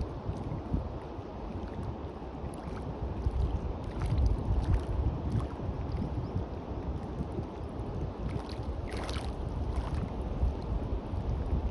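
Sea waves washing onto a beach, with wind buffeting the microphone as a steady low rumble; one wash is loudest about nine seconds in.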